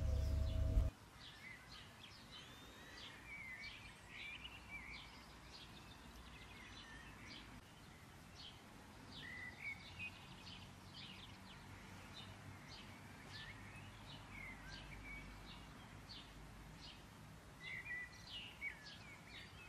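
Small birds chirping and twittering faintly, with many short high chirps scattered throughout. About a second in, a louder steady low hum cuts off abruptly.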